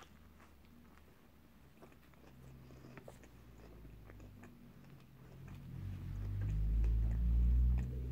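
Chewing a mouthful of a Subway sub bite (a small filled bread roll), with soft mouth clicks. About six seconds in, a low rumble swells up and eases off near the end.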